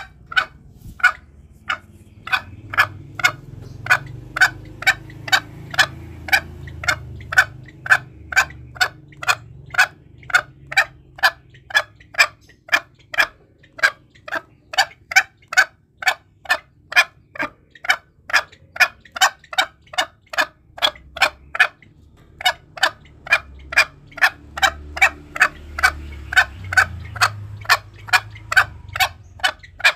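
Green junglefowl calling in a long, even series of short notes, about two or three a second, with a couple of brief pauses; a lure call used to draw junglefowl in. A low rumble sits underneath at times.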